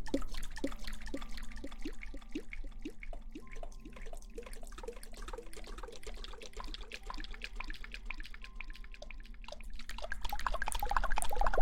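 Water dripping in quick small drops, a few a second, then running and splashing louder near the end, as when hair is being washed.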